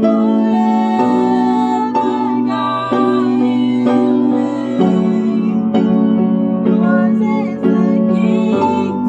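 Piano playing sustained chords for a vocal warm-up, moving to a new chord about once a second, with voices singing along.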